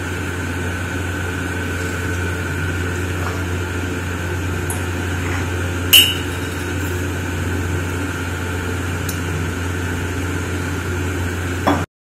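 Chopped vegetables sizzling steadily in oil in an aluminium pan, over a low hum. A single sharp clink about halfway through, and the sound cuts off abruptly just before the end.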